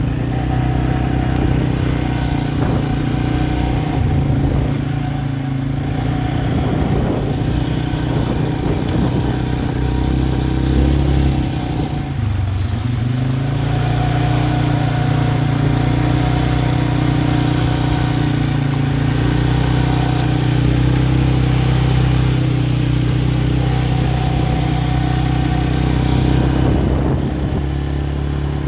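A motor vehicle's engine running steadily. Its pitch drops briefly about twelve seconds in, then climbs back, as when the vehicle slows and picks up speed again.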